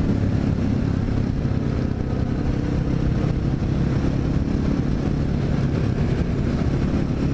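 Honda XR650L's air-cooled single-cylinder four-stroke engine running steadily while the bike is ridden, with no clear rise or fall in pitch.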